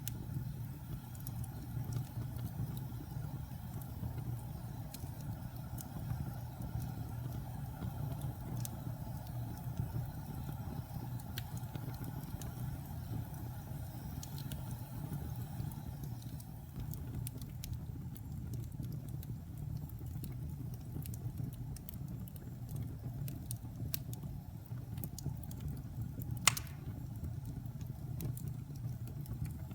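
Wood fire burning in a fireplace: a steady low rumble with scattered small crackles and one loud pop near the end.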